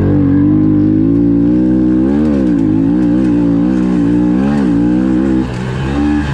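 Honda CRF110F pit bike's single-cylinder four-stroke engine running hard under race throttle. Its pitch dips and climbs back twice as the throttle is worked, and it briefly drops off about five and a half seconds in.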